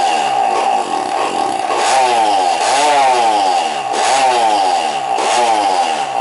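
Yamaha DT230 Lanza's two-stroke single-cylinder engine running just after starting, blipped on the throttle about four times so its pitch rises and falls between steady idling stretches.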